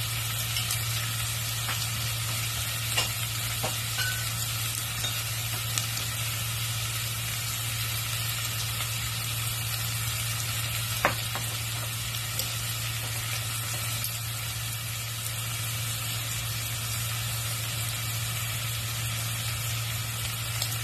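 Fried pork ribs with onion and pineapple chunks sizzling in a stainless steel saucepan, with a few sharp pops, the loudest about eleven seconds in, over a steady low hum.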